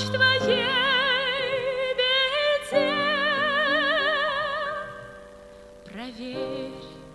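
The end of a sung song: a voice holds a long final note with vibrato over sustained accompaniment, fading from about five seconds in, then a brief rising sung phrase that dies away.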